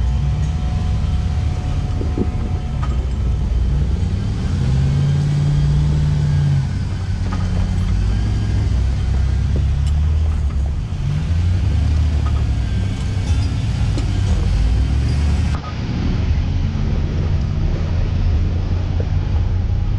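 Jeep engine running at low revs, its note rising and falling with the throttle over a deep rumble.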